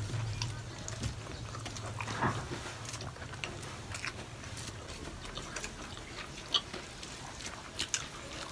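People chewing food with the mouth close to the microphone: scattered wet clicks and smacks.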